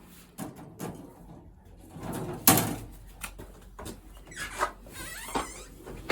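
Pigeons cooing in a loft, with several sudden knocks and rattles from the birds being handled and basketed, the loudest knock about halfway through.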